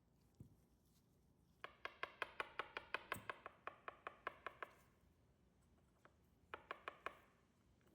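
Rapid metallic clicking with a brief ring to each click: a run of about twenty at six or seven a second, then, after a pause, a short run of four.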